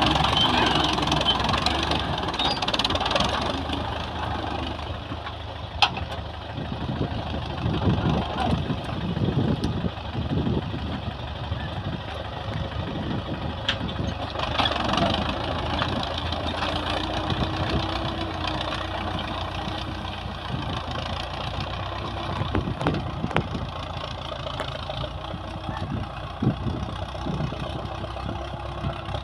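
Old Soviet tractor's engine running steadily while lifting cassava, louder in the first few seconds, with one sharp knock about six seconds in.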